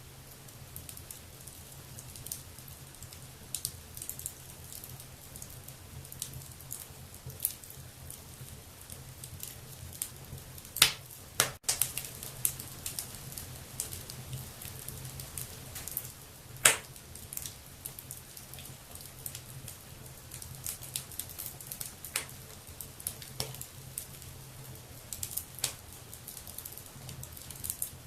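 Wood fire burning in a fireplace: a steady soft hiss with frequent irregular crackles and sharp pops, two louder pops about eleven and seventeen seconds in. A faint steady low hum sits underneath.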